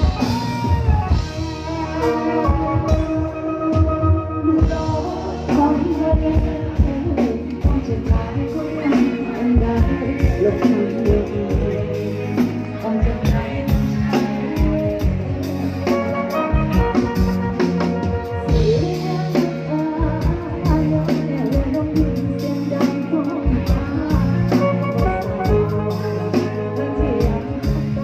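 A live band playing steadily, with drum kit, bass and guitar.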